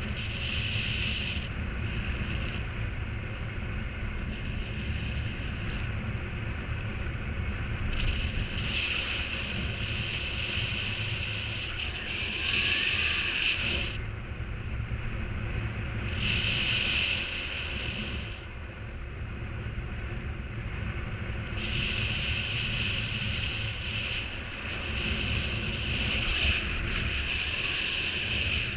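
Wind rushing over the microphone in flight under a paraglider, a steady low rumble with a higher hiss that swells and fades every few seconds.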